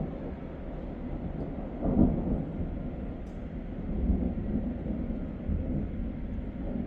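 Thunder rumbling low and rolling, swelling about two seconds in and again around four seconds.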